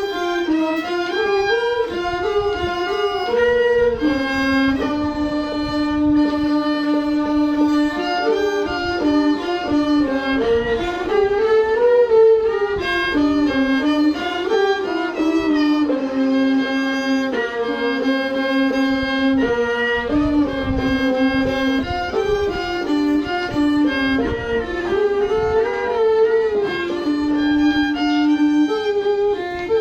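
Violin playing a melody, with some notes held for a second or two.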